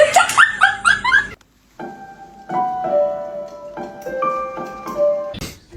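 A quick run of short, rising chirp-like sounds, then after a short pause a string of held keyboard notes stepping up and down, one or two at a time, ended by a brief sharp noise.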